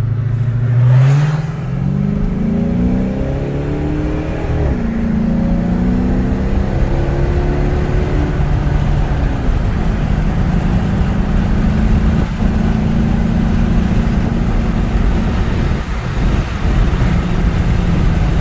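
The 5.7-litre Hemi V8 of a 2006 Dodge Charger Daytona accelerating under way. Its pitch rises for a few seconds and drops suddenly at an upshift about four and a half seconds in. It then climbs again and settles into a steady cruise.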